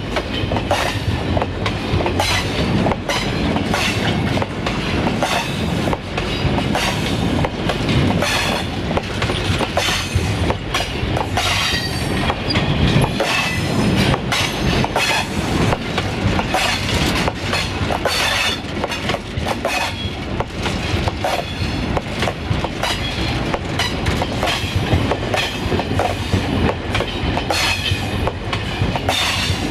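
Freight wagons rolling past close by: steel wheels rumble on the rails and clatter over the rail joints in a continuous, irregular run of knocks, with a high wheel squeal coming and going.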